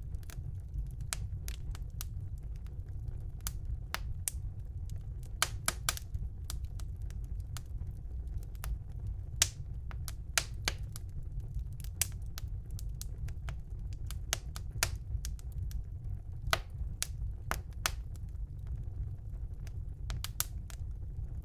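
Wood fire burning in a fireplace: irregular sharp crackles and pops, several louder snaps among them, over a steady low rumble of the flames.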